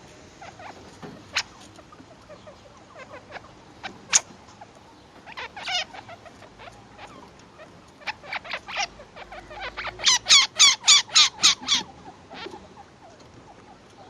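Baby chinchillas, about two weeks old, squeaking at their mother with short, high-pitched calls scattered through, then a run of about eight loud, wavering calls in quick succession about ten seconds in.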